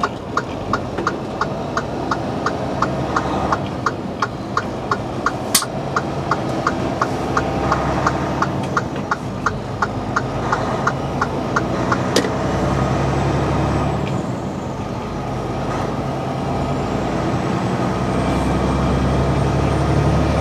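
Turn signal clicking in a semi-truck's cab, about two and a half clicks a second, over the running diesel engine; the clicking stops about twelve seconds in and the engine then pulls harder, growing louder.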